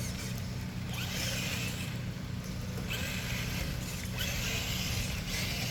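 Traxxas TRX-4 Blazer RC crawler's electric motor and gears whirring in several short spurts as it backs up and manoeuvres, over a steady low hum.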